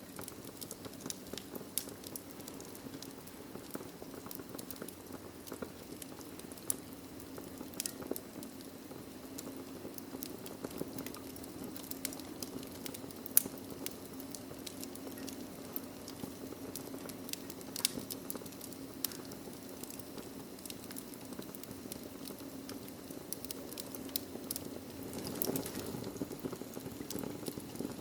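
Wood fire crackling in a fireplace: a steady low rumble of flame with irregular sharp pops and snaps throughout, the loudest pop about 13 seconds in.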